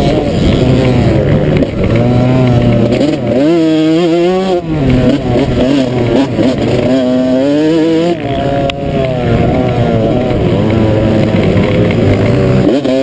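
Motocross dirt bike engine running hard under the rider's throttle, its pitch climbing sharply and falling back several times. There is a sharp knock about two-thirds of the way through.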